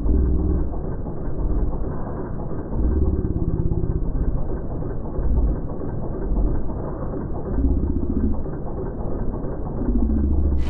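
Car engine idling, heard muffled with only the low end, its rumble swelling and easing unevenly every second or two.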